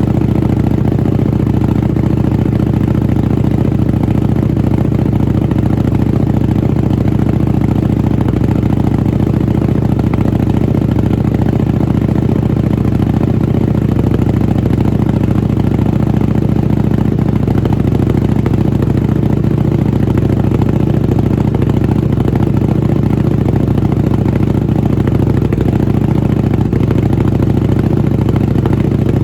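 Buell 1125R's 1125 cc V-twin idling steadily through a Jardine RT-5 aftermarket exhaust while it warms up, its pitch holding even with no revving.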